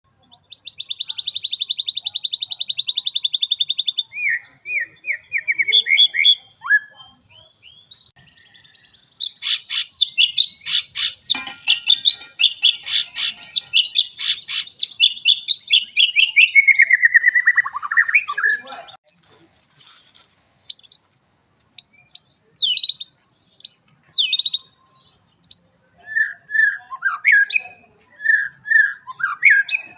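White-rumped shama singing a long, varied song. It opens with a fast, even trill, then after several seconds gives a dense run of rapid notes that ends in a falling glide, followed by separate clear whistled phrases.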